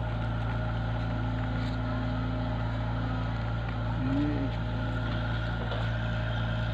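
An engine running steadily at an even speed, a constant low hum. A short faint rising-and-falling tone sounds about four seconds in.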